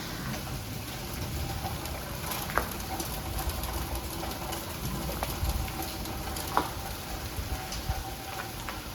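Sleet (ice pellets) pattering densely on surfaces, a steady crackling hiss of countless small ticks, with a few louder ticks and plinks now and then.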